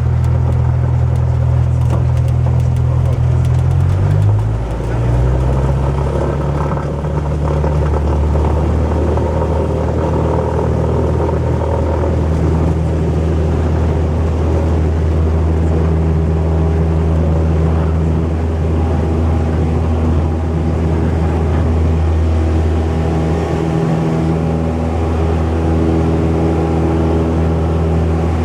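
Cessna 172's four-cylinder piston engine and propeller running steadily. Its pitch shifts about four to five seconds in, then holds even.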